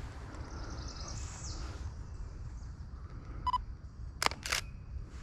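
A short electronic beep, then two sharp clicks in quick succession, typical of a handheld camera, over a faint outdoor background with high thin chirps from birds or insects.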